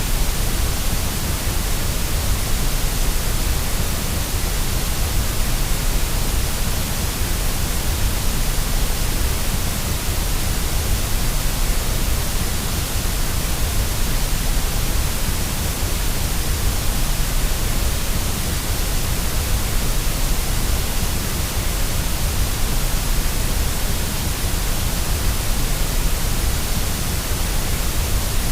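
Steady white noise for baby sleep: an even, unchanging hiss across the whole range, heaviest in the low rumble.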